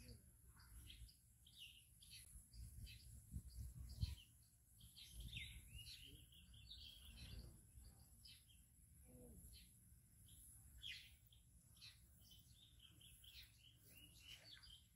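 Faint chirps and short calls of several small birds, coming again and again, over a low rumble, with a soft knock about four seconds in.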